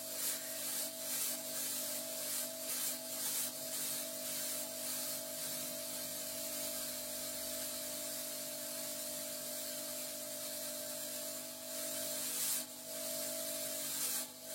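400-watt mini fog machine running with its remote button held: a steady hiss of fog jetting out, with a steady hum underneath.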